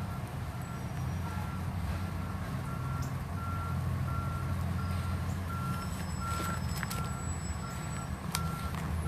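A vehicle's reversing alarm beeping steadily at an even pace, about three beeps every two seconds, over the low rumble of an idling engine.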